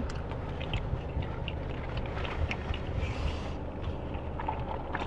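A person chewing a chicken sandwich, with many small wet mouth clicks, over a steady low rumble inside a car.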